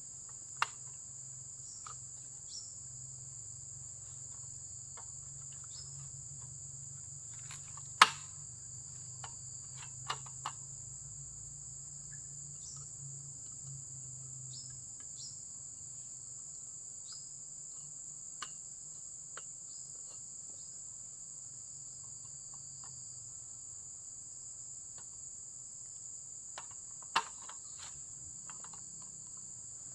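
Crickets chirring in a steady, high, unbroken trill, with scattered sharp clicks and knocks, the loudest about eight seconds in and another near the end.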